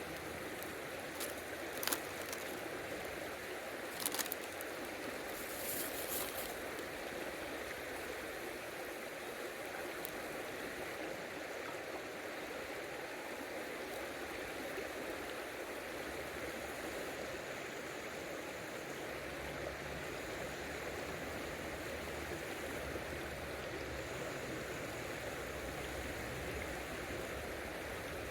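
River water flowing steadily, with a few short sharp clicks in the first several seconds.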